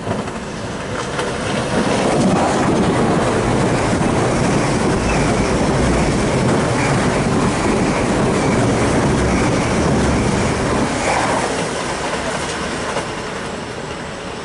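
A GWR Intercity Express Train, a diesel-powered bi-mode on this unelectrified line, passing close by, its wheels running on the rails. The sound builds over about two seconds, holds, and eases off near the end.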